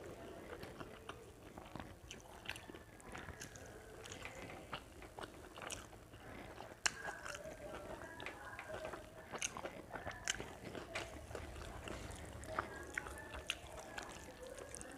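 Close-miked chewing of rice and chicken curry: wet mouth smacks and many small, sharp clicks, with one louder click about seven seconds in.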